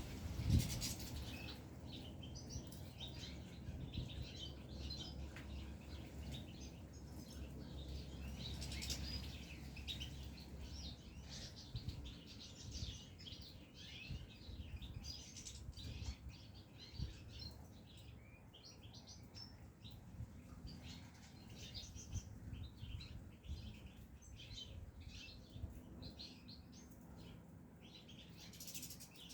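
Caged goldfinches chirping and twittering, a steady stream of short, high calls. A low knock comes about half a second in.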